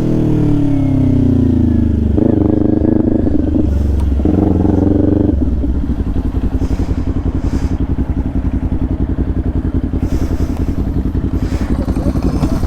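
Motorcycle engine falling in pitch as it slows, holding a steadier note for a few seconds, then about five seconds in settling to a low, evenly pulsing idle.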